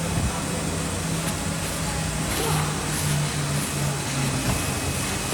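Steady hum and noise of machinery running, with a low hum that shifts a little in pitch and a faint steady high tone.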